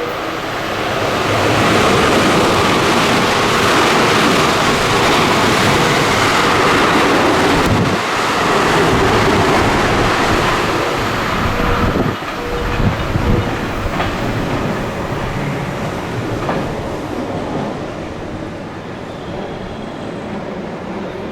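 Train running through the station on the Biwako Line at speed, a loud rush of wheels on rails and air. It swells about two seconds in, holds for about ten seconds, then fades as the train draws away.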